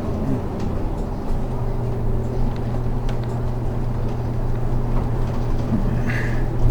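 Inside a moving city bus: the engine's steady low drone with road noise. A brief higher-pitched sound comes near the end.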